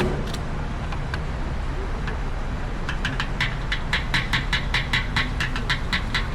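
Triumph Speed Twin 1200's parallel-twin engine running steadily through its exhaust. About three seconds in, a rapid run of sharp ticks, about five or six a second, joins it.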